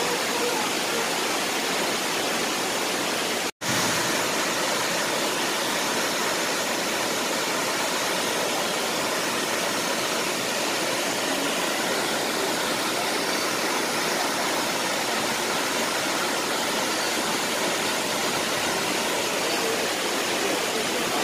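Steady rushing roar of Shifen Waterfall's falling water. It cuts out for an instant about three and a half seconds in.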